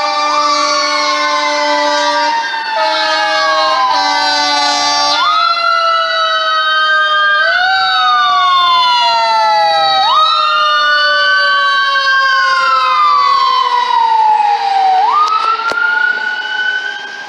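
LAFD fire engine responding: several air horn blasts in the first five seconds, then a siren wailing, each cycle rising fast and falling slowly, over a second siren tone that slowly falls in pitch throughout.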